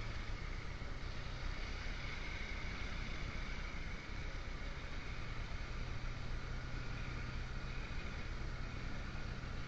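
Motorcycle engine running at a steady cruise, with wind rushing over the microphone. The engine note eases briefly about four seconds in, then steadies again.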